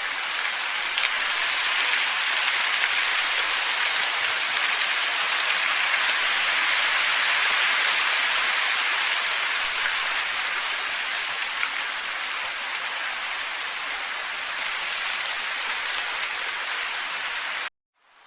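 Steady rushing hiss of wind ambience, swelling slowly and easing off a little. Near the end it cuts out suddenly for a fraction of a second, then fades back in.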